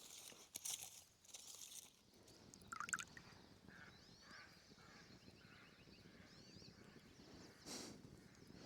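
Quiet forest ambience with distant birds calling faintly: a few short chirps and a brief rapid trill. There are a few light clicks and rustles in the first second or so, and a short rustle near the end.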